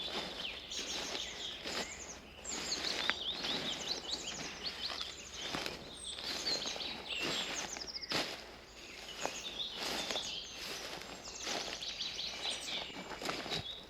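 Several forest birds singing, with many short, high twittering and chirping phrases overlapping, over footsteps on a path at a slow walking pace, about one step a second.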